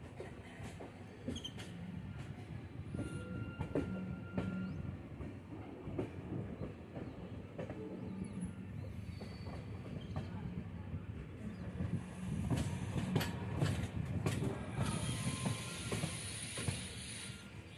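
Passenger train running, heard from an open coach door: a steady rumble of wheels on rail with irregular clacks over joints and points. Near the end a high, steady wheel squeal sets in as the coaches take a curve.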